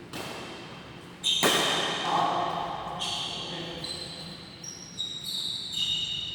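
Badminton play: sharp racket hits on the shuttlecock, about five in all with the loudest a little over a second in, with high squeaks between and after them.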